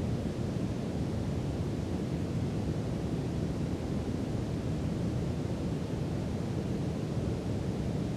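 Steady brown noise: an even, deep hiss heaviest in the low end, holding at one level without change.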